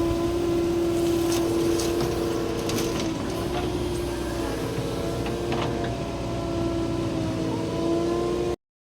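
Diesel engine of earth-moving machinery running steadily with a constant droning tone and a few light clanks, cutting off abruptly near the end.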